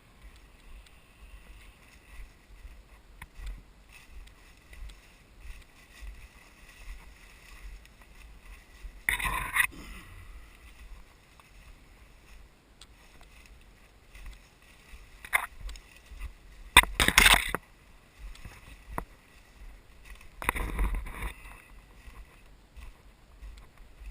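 Footsteps of a person hiking through forest undergrowth, heard through a body-worn camera as uneven low thumps, with three louder rustling, crunching bursts of brush or branches, one near the middle and two toward the end, and a sharp snap in between.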